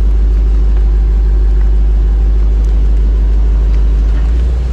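2013 Dodge Charger R/T's 5.7-litre Hemi V8 idling with a steady low rumble, easing slightly near the end.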